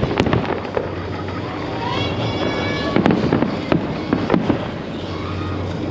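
Fireworks going off: sharp bangs and crackles over crowd noise, with a rising whistle about two seconds in.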